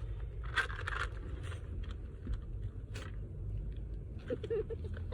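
Scattered scraping and rustling of things being handled, over the low steady rumble inside a car.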